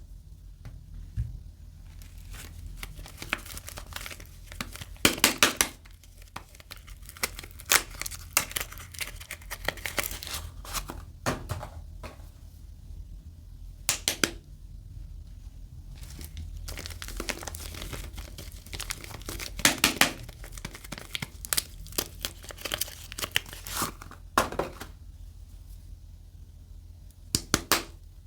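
Soap packaging being unwrapped: wrapping crinkling and tearing in irregular bursts, with louder clusters of crackles every few seconds.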